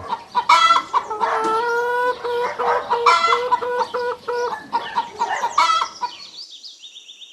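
Hen clucking: a run of short, repeated clucks that fade away near the end.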